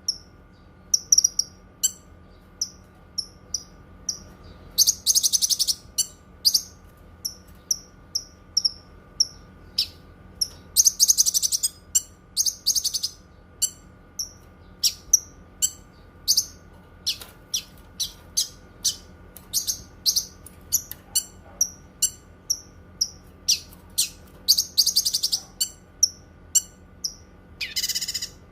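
Cucak kinoi singing: a run of short, high, sharp notes, about one or two a second, broken several times by rapid trilled phrases. A faint steady hum lies under the song.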